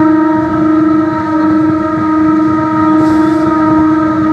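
Train horn sounding one long steady blast over the low rumble of the train.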